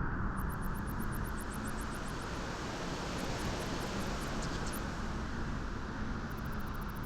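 Steady wind blowing in a low, even rush, with a brighter hissing gust that swells in the middle and fades again.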